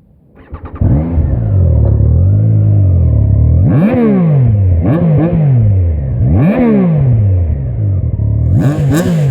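Triumph Trident 660's inline three-cylinder engine being started: the starter cranks briefly and the engine catches under a second in, settles into a steady idle, then is revved in about four quick throttle blips, each rising sharply and falling back to idle.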